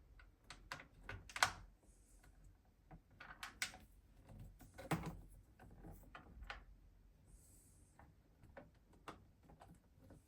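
Plastic parts of a Flymo Hover Vac 250 lawnmower being handled and fitted back together, making scattered clicks and knocks at irregular intervals, the loudest about a second and a half in and again about five seconds in.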